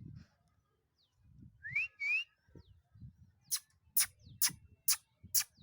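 A person whistles two short rising notes, calling to a flock of pigeons. Then comes a regular run of sharp clicks, about two a second, over a low wind rumble on the microphone.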